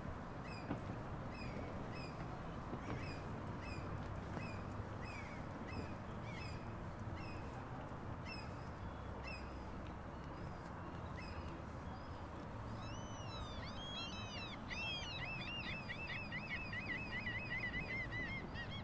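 Birds calling: a short, high chirp repeated about twice a second, then, about two-thirds of the way in, a quick run of rising-and-falling notes. Under them runs a steady low outdoor rumble.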